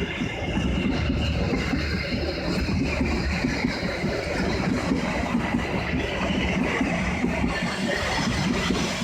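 Diesel-hauled passenger train running steadily with a low engine rumble as it moves through a railway level crossing.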